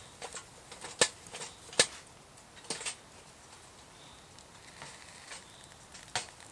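A handful of sharp, irregular knocks or taps, the loudest about one and two seconds in, with a quick pair near three seconds and one more near the end.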